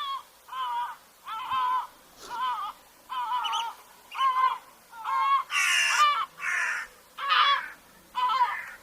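Gulls calling: a run of short, harsh calls, about one a second, with two louder, rougher squawks in the middle.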